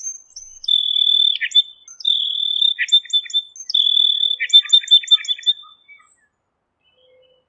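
Birdsong: clear, high whistled notes held for a second or so at a time, broken by quick rising chirps, stopping about six seconds in.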